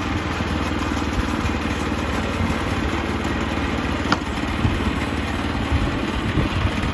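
Sawmill engine running steadily, with a single sharp click about four seconds in.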